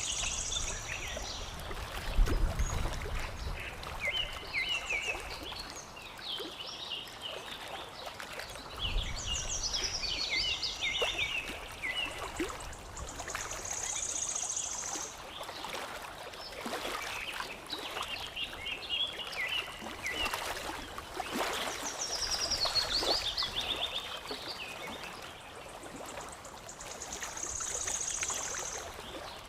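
Several songbirds chirping and trilling over the steady trickle and lapping of water. Twice near the start a short low rumble rises under the birdsong.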